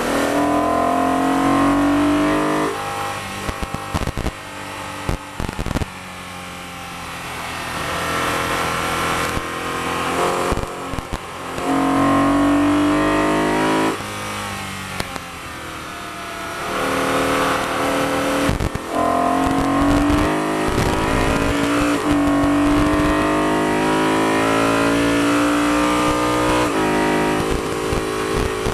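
BMW E92 M3's V8 engine driven hard, heard from inside the car. Its pitch climbs under full throttle and falls away several times as it runs up through the gears and backs off for corners, then holds high and rising for a long stretch near the end.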